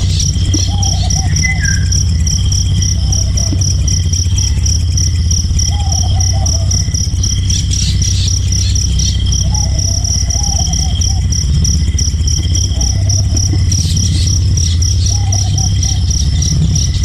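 Insects trilling steadily in a high pulsed tone, with a short low warbling call repeating every two seconds or so, over a steady low rumble.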